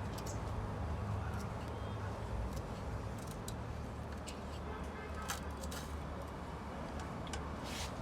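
Scattered light metallic clicks and clinks of small transmission bolts and parts being handled, over a steady low background hum.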